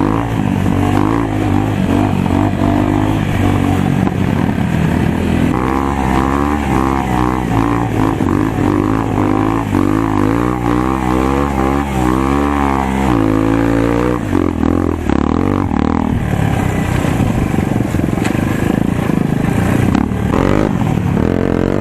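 Motocross dirt bike engine revving on the track, its pitch rising and falling over and over as the throttle is worked, busiest through the middle of the stretch.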